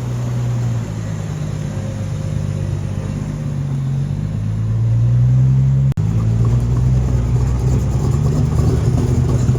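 Car engine, a muscle car's V8, running with a deep low note. It climbs in pitch as it revs over a couple of seconds, breaks off abruptly about six seconds in, then carries on steadily.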